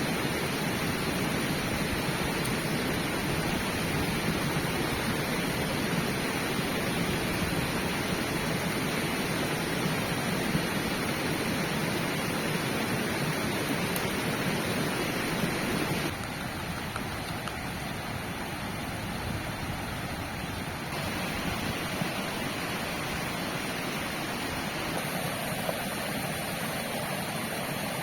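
A river flowing: a steady rush of water, dropping in level about halfway through and shifting again a few seconds later.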